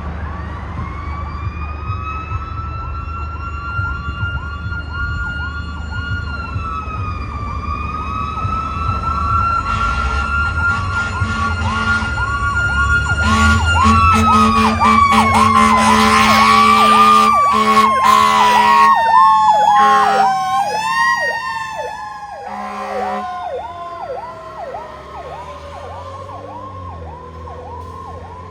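Fire apparatus sirens passing: a fast, rapidly cycling yelp runs throughout, under a slower wailing siren whose pitch drops steadily in the second half. Horn blasts sound in the middle, where the sirens are loudest.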